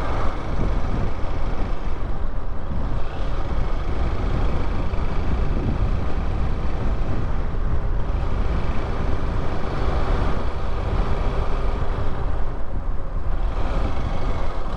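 Motorcycle on the move: steady wind rush on the rider's microphone over the engine running.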